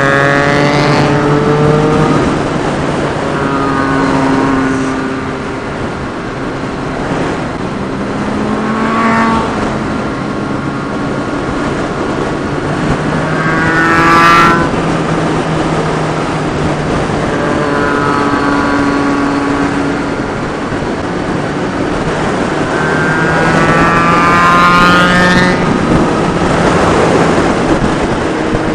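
Motorcycle engine running under way, revving up and easing off several times as it pulls through the gears, over a steady rush of wind noise.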